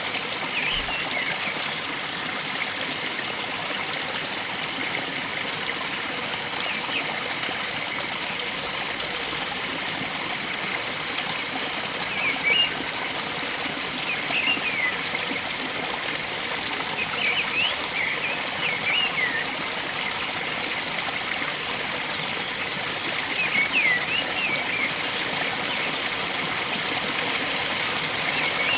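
Steady rush of flowing stream water, with a bird giving short high chirps in small groups every few seconds.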